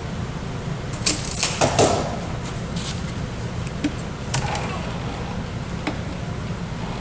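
A cluster of sharp clicks and light clatter about a second in, then single clicks near the middle and end: small pieces and tools being handled on a work surface. A steady low hum runs underneath.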